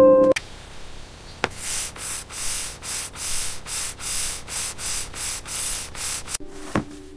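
A steady rhythm of rough scraping or brushing strokes, about three a second, that starts a little after the music stops and ends sharply near the end.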